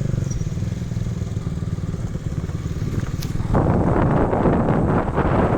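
Motorcycle engine running while riding, a steady low drone, with a louder rushing noise joining about three and a half seconds in.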